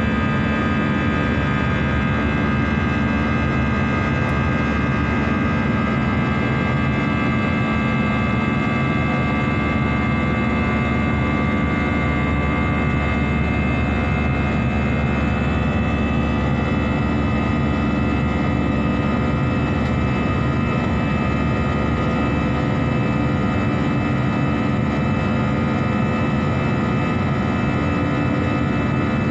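Airliner cabin noise in flight: the jet engines and airflow making a steady, even drone with a hum of several steady tones.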